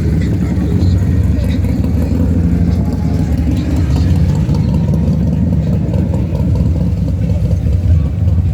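A car engine running steadily close by, with a loud, deep exhaust note.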